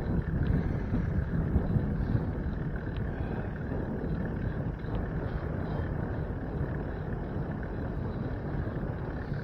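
Steady wind rush on the microphone of a moving bicycle, mixed with rolling road noise.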